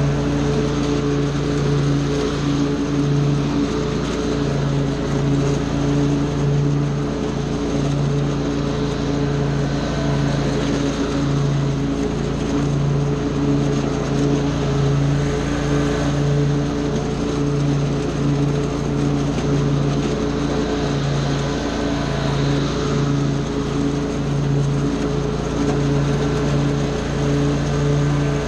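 Small gasoline engine of lawn equipment running steadily at a constant speed.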